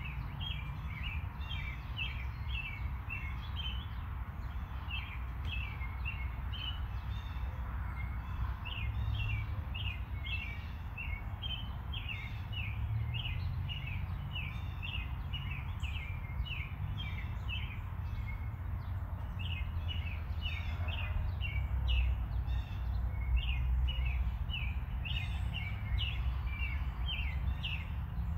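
Birds chirping busily, many quick chirps a second, over a steady low rumble.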